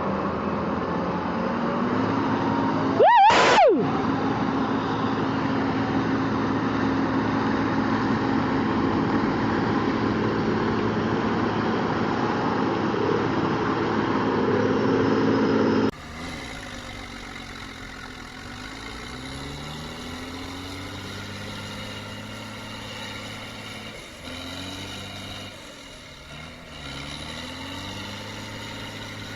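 Tractor engine running steadily under load, with a brief loud high tone rising and falling about three seconds in. About sixteen seconds in it cuts to a quieter engine revving up and down repeatedly.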